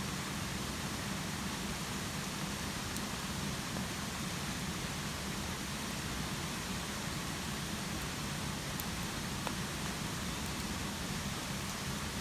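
Steady hiss of rain falling at a campsite, with a few faint sharp ticks scattered through it.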